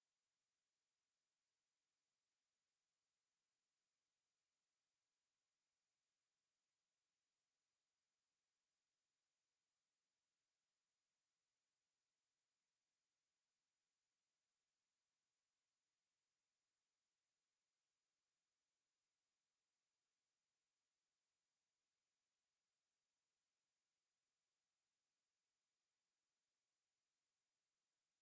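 A steady high-pitched pure sine tone at 8878 Hz, held unbroken at a constant level: a speaker test and cleaning tone meant to vibrate water and dust out of a speaker.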